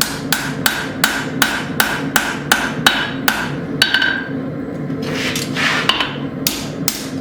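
Hand hammer striking hot steel on an anvil at about three blows a second, each with a short ringing note. The blows stop about four seconds in, then two more come near the end, over a steady low hum.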